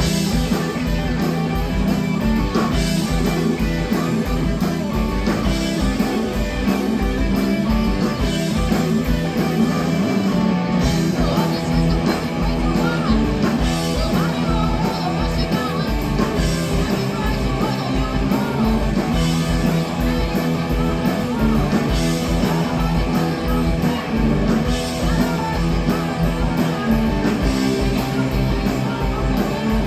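Live rock band playing loud: electric guitars over bass and drums, with a fast, steady drum beat.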